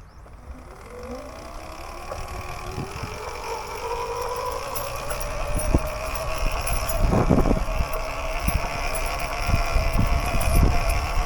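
Electric dirt bike's motor whining as the bike pulls away, its pitch rising over the first few seconds and then holding steady, over a low rumble. A brief louder burst comes about seven seconds in.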